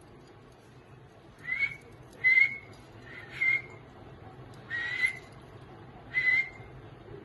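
Small pet parrots, lovebirds, giving five short whistled calls at irregular intervals, each rising slightly and then holding a steady pitch.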